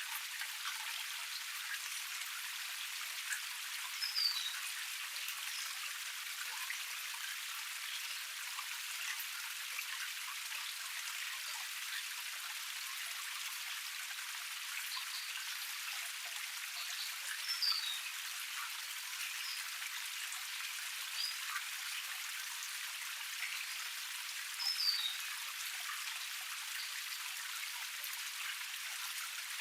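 Steady splashing and rushing of water falling over a small forest cascade, with no low rumble. A bird gives a short high call three times.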